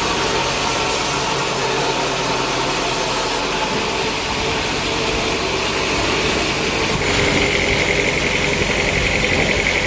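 Sawmill machinery running steadily, with a change in the sound about three and a half seconds in and a louder, pulsing high whine from about seven seconds in.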